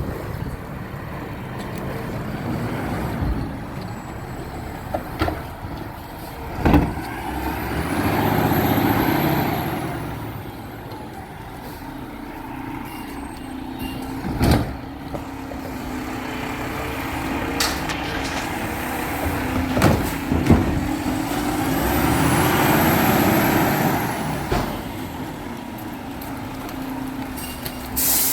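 Garbage truck running, with two swells of noise about thirteen seconds apart, each carrying a high whine that rises and falls, and a few sharp knocks in between. A short burst of air-brake hiss comes near the end.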